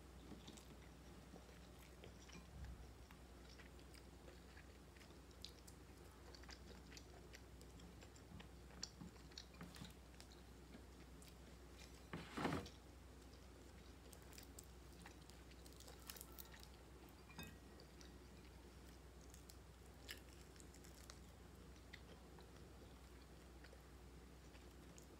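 Faint chewing, biting and small mouth clicks of a person eating fried dried fish and rice by hand, with one louder brief noise about halfway through.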